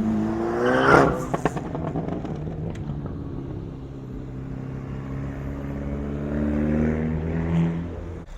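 Car engine revving hard about a second in, with a few sharp cracks, then running on with its pitch slowly climbing as the car pulls away; the sound cuts off suddenly near the end.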